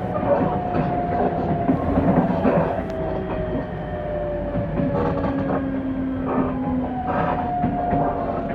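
Train running, heard from inside the carriage: a whine slides slowly down in pitch as the train slows toward a station, over a steady rumble with clacks from the wheels.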